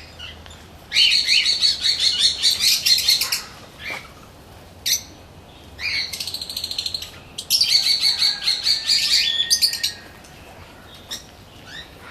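A flock of small parakeets chattering in loud bouts of rapid, high chirps, with short quieter gaps and a few single chirps between.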